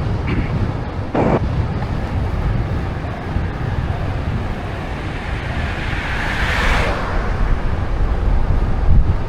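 Wind buffeting the microphone of a camera on a moving bicycle, a steady low rumble. A short burst of noise comes just after a second in, and a hiss swells and fades about six to seven seconds in.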